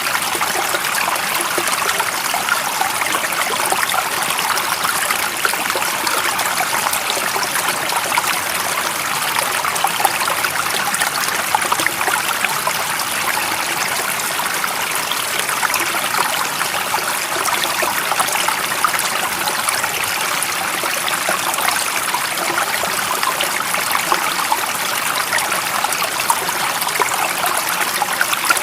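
Stream water running steadily: an even, bright splashing with little low rumble and no change in level.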